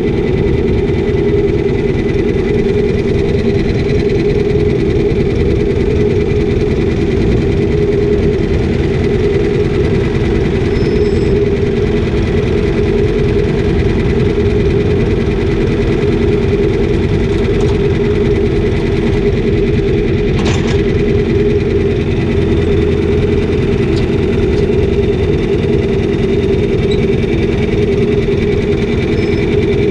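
Engine of the farm machine spreading chicken litter, running steadily at constant speed with a loud, even drone. A single short click sounds about two-thirds of the way through.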